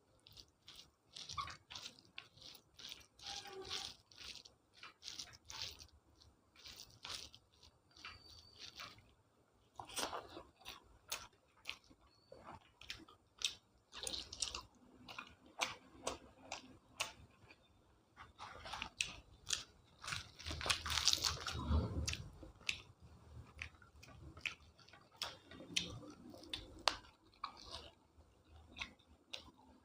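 Close-up eating sounds: a person chewing and biting food, with many short, irregular crunches and wet mouth clicks, the busiest and loudest stretch about two-thirds of the way through.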